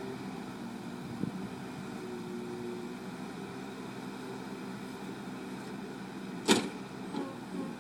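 Bulldozer's diesel engine running steadily, with a sharp metallic clank about six and a half seconds in and lighter knocks around it.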